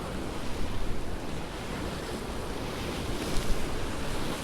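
Big waves washing in and breaking, with strong wind buffeting the microphone as a steady low rumble.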